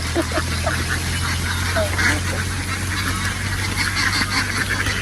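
A large flock of domestic ducks quacking all together in a dense, continuous chatter, over a steady low engine hum.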